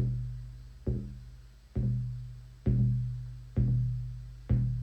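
Shamanic drum beaten in a slow, steady pulse, about one stroke a second, each deep stroke ringing and fading before the next.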